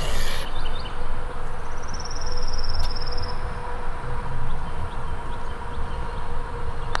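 Wind rumbling on the microphone across an open golf course, with a short, rapid high-pitched trill for about two seconds near the start and a few faint chirps.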